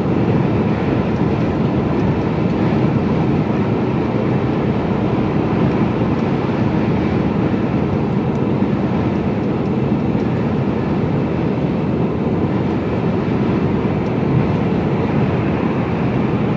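Steady engine and road noise inside the cab of a Mercedes-Benz Actros lorry driving along, mostly low rumble.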